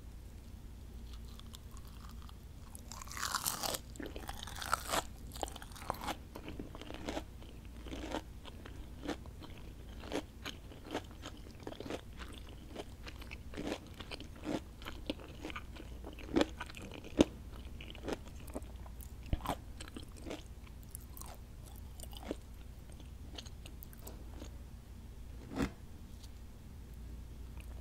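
Close-miked eating of crunchy battered fried onion rings: a bite about three seconds in, then irregular crisp crunches of chewing.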